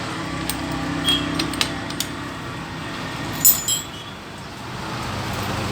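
Several sharp metallic clinks of tools or parts, the loudest about three and a half seconds in, over a steady low mechanical hum.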